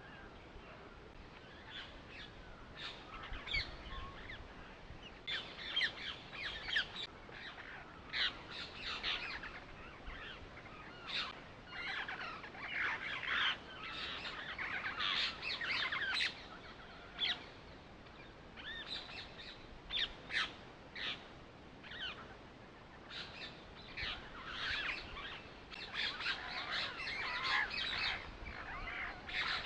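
Small birds chirping: many short, high calls in irregular clusters with brief lulls.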